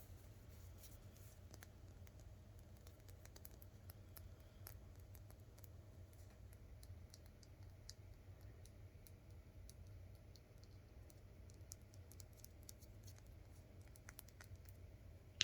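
Fingernails tapping and scratching on a textured glass nail polish bottle: faint, irregular light clicks, several a second, over a low steady hum.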